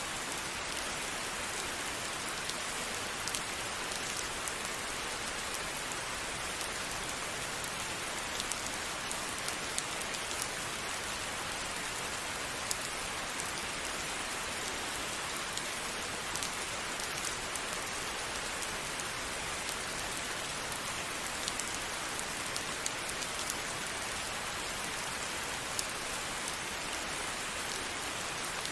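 Steady rain falling, an even hiss with the sharp patter of single drops striking a hard surface scattered through it.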